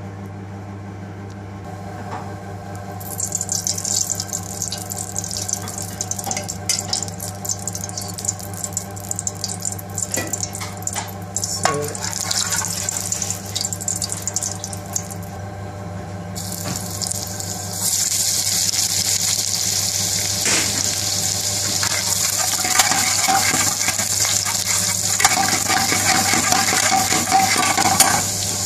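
Hot oil sizzling and crackling in a frying pan, with a metal spoon clicking against the pan. About two-thirds of the way through, chopped garlic and onion are frying in it and the sizzle becomes louder and steadier. A steady low hum runs underneath.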